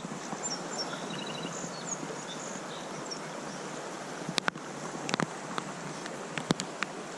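Steady rush of creek water and wind, with a faint bird trill about a second in and a few sharp taps in the second half.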